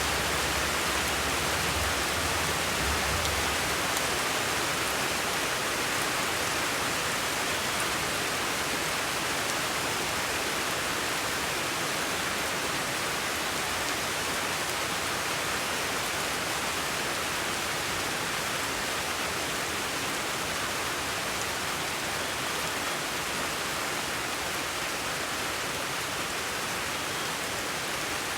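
A steady, even hiss that does not change, in the manner of rain or generated relaxation noise, with a faint low rumble in the first few seconds.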